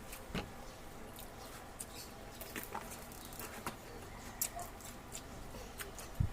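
Faint eating sounds: scattered soft clicks and smacks of chewing.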